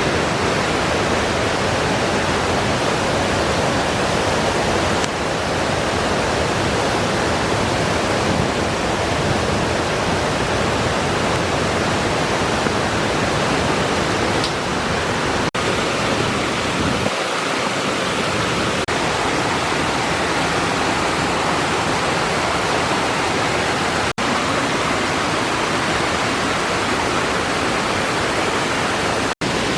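Waterfall: a steady, loud rush of falling water close by, broken by three momentary dropouts.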